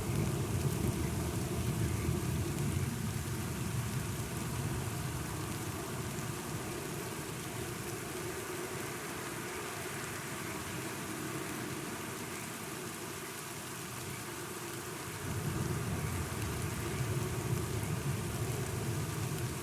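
Steady rain falling, with low rolling thunder that fades away over the first several seconds and a new rumble of thunder rising about three quarters of the way through.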